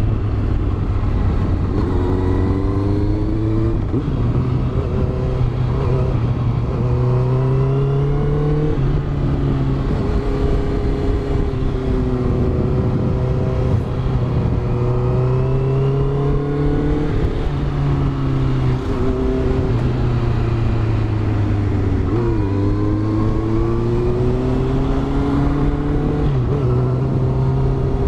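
Honda CBR650F inline-four motorcycle engine with a Yoshimura exhaust, heard onboard while riding. The revs climb and fall again and again, with several sudden drops in pitch as the throttle is closed or a gear is changed.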